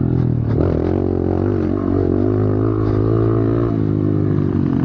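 Pit bike's single-cylinder engine running hard under racing throttle, its pitch wavering up and down with the throttle.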